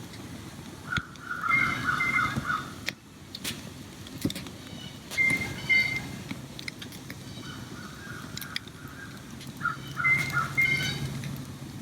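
Birds calling in three short bouts, each about a second long, with scattered sharp clicks over a low steady background.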